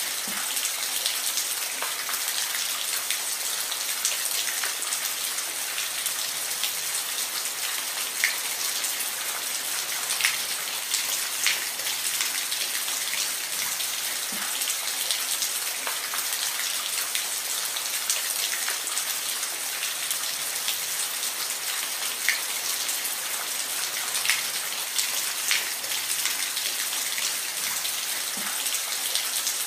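Steady rainfall, a continuous bright hiss with individual drops tapping and dripping scattered through it.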